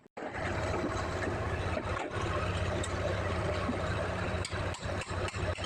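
Diesel engine of a Hitachi LX50 wheel loader running steadily, cutting in abruptly just after the start.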